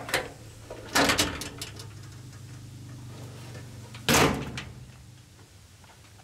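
Metal storage compartment doors on a truck's utility bed being swung open and shut, with two loud clanks: one about a second in and one about four seconds in.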